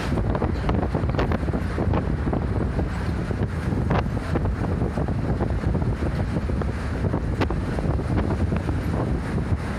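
Interior of a moving route bus: steady low road and engine rumble with rushing wind, and a few short rattles and knocks, the clearest about four seconds in.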